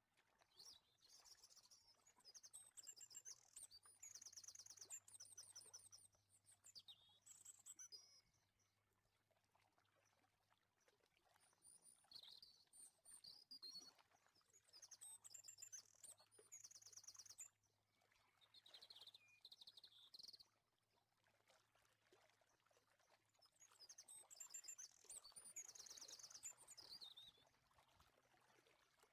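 Faint birdsong: bouts of quick, high, repeated chirps and trills coming and going, with quiet gaps between them.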